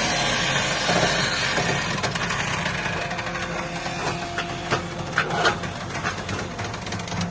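Hydraulic automatic metal baler pressing aluminum extrusions: a steady hiss with scattered clicks and cracks of metal being crushed, over a faint machine hum.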